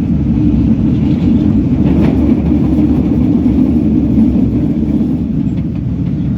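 Subway train running, a loud, steady low rumble.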